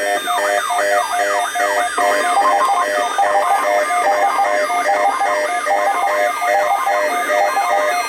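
Electronic siren-like wail sweeping rapidly up and down in pitch, over music with a repeating stepped melody.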